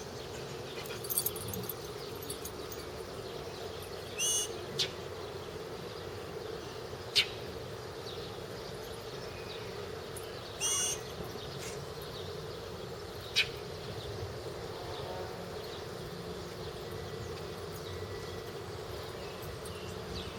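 Gray catbird giving two short, harsh scolding calls, about four and eleven seconds in, as it mobs a dog. A few sharp clicks fall in between, over a steady low drone.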